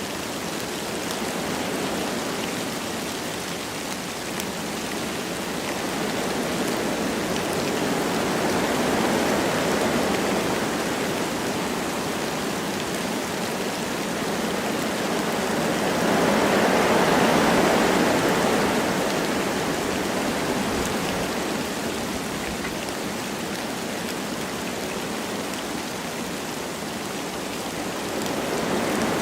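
Wind blowing through forest trees with light rain falling, a steady rushing that swells and eases slowly, with the strongest gust a little past halfway.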